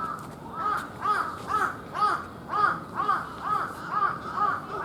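A bird calling over and over: a short call that rises and falls, about two or three times a second.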